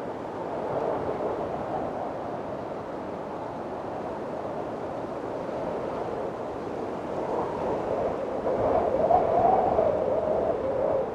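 Strong wind blowing in gusts, a steady rushing with a faint wavering howl that swells to a louder gust about eight seconds in and eases again near the end.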